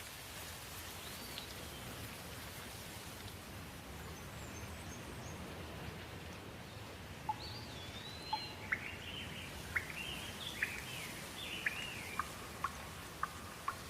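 Steady rain with birds calling. A single rising-and-falling whistle comes about a second in. From about halfway there is a run of quick chirping phrases and a string of sharp ticks, roughly one a second.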